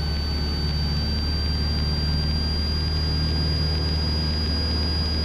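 Cessna 172's piston engine running steadily at full takeoff power during the takeoff roll, with a thin high whine held over the drone.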